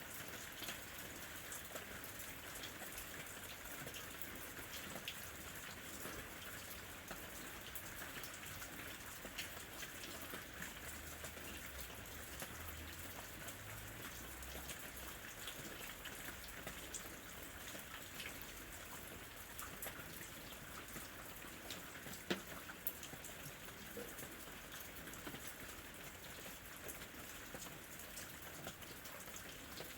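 Steady rain falling, with many small drop ticks through it and one sharper tick about twenty-two seconds in.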